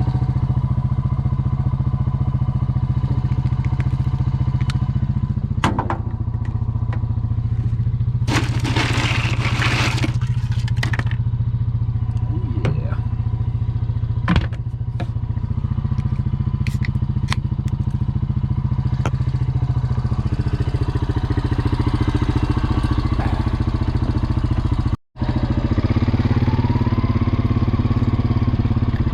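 An engine running steadily at idle, with a hissing noise lasting a couple of seconds about eight seconds in and scattered clicks and knocks.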